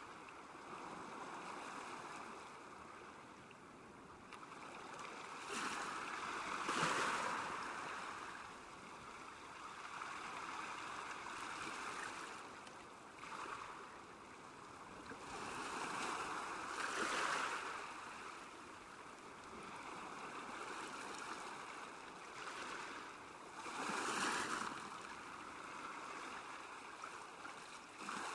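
Small waves lapping at a lake shore, a steady wash of water that swells and eases every few seconds, with a few louder surges.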